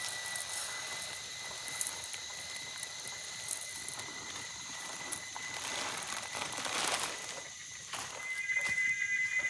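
Wild animal calls over a steady high-pitched tone; the tone grows louder and starts to pulse about eight seconds in.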